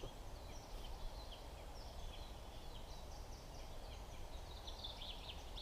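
Birds chirping faintly, short high calls scattered throughout with a quicker run of notes near the end, over a steady low background rumble.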